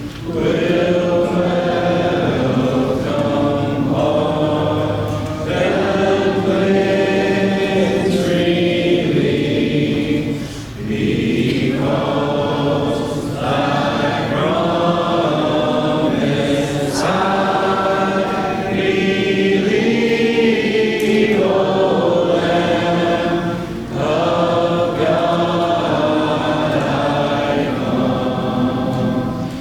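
Congregation singing a hymn together a cappella, many voices without instruments, with short breaks between phrases about ten seconds in and again near the end.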